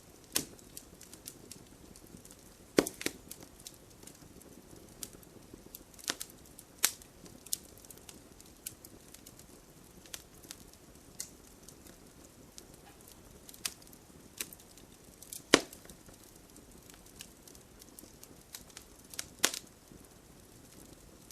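Wood fire burning in a fireplace, crackling with irregular sharp pops and snaps over a faint low hiss, a few pops much louder than the rest.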